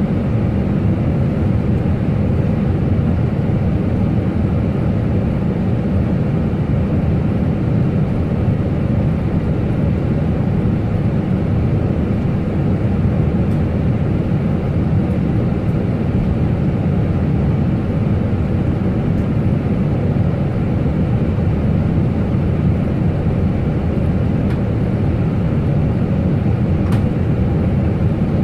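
Airliner cockpit noise: a steady low rumble of the engines and rushing air, unchanging in level.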